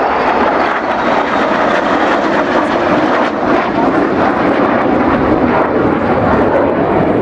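Fixed-wing aircraft flying a display, its engine noise a loud, steady rushing drone.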